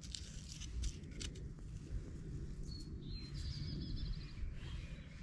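Low wind rumble with a few light clicks and rustles of dry pine needles and bone being handled in the first second; about three seconds in, a songbird gives one short, fast, high trill.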